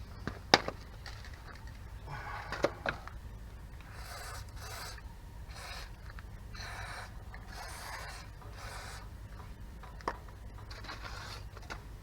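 Repeated hand scraping or rubbing strokes on a hard surface, roughly one stroke a second, each about half a second long. A few sharp clicks, the loudest about half a second in and another around ten seconds in.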